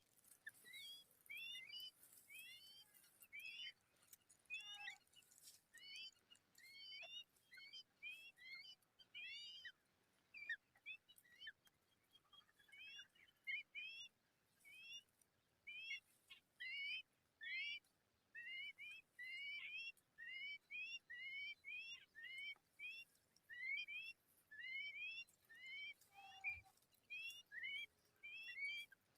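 Nestling begging calls: a steady string of short, high, upward-sliding cheeps, about two a second, with no break.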